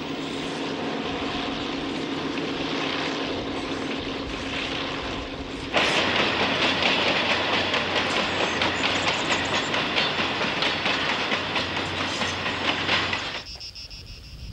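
A narrow-gauge freight train of sand wagons passing. First comes a steady engine hum and rolling noise from further off. About six seconds in it jumps to the louder, close-up rumble and rapid clickety-clack of the wagons' wheels on the rails, which stops abruptly near the end.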